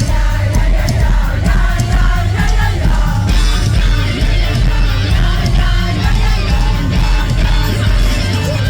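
Live rock band playing loud, with heavy bass and drums pulsing underneath, a voice singing and a crowd yelling.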